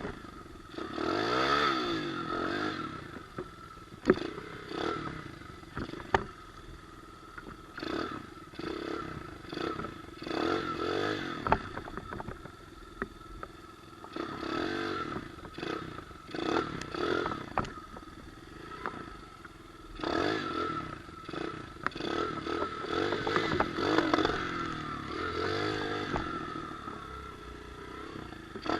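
Pit bike engine revving up and dying back again and again, in bursts every few seconds, with a few sharp clicks and clatters between them.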